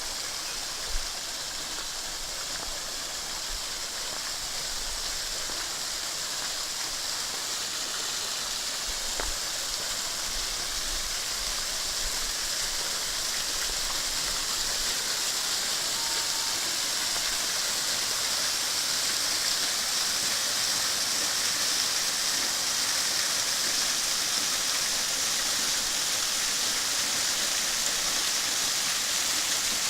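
Waterfall water falling and splashing over rocks: a steady rushing hiss that grows slowly louder, with a single sharp click about a second in. The falls carry only a thin flow in the dry season.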